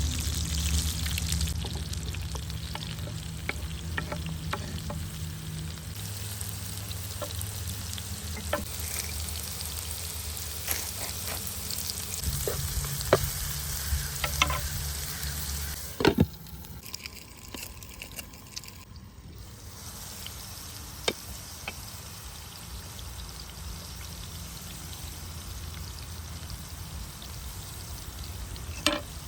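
Food frying in a pan, an even sizzle with occasional sharp clicks and taps. About halfway through, the sizzle drops to a fainter level.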